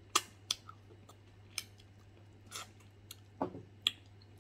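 Close-miked chewing of soft, gelatinous stewed beef-foot skin: a scattered series of about seven wet mouth smacks and clicks.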